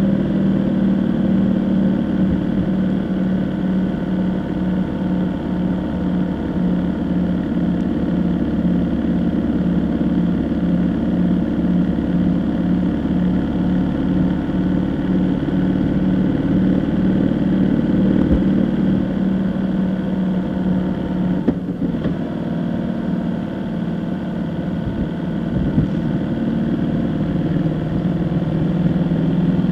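A vehicle's engine running steadily while driving, with a continuous low hum that pulses about twice a second through the first half.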